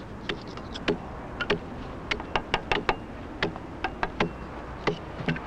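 Irregular sharp metallic taps and clicks, a few with a brief ring, from the blade and handle of a two-man pit saw as its yoke handle is refitted to the lower end of the blade with a wedge-shaped pin.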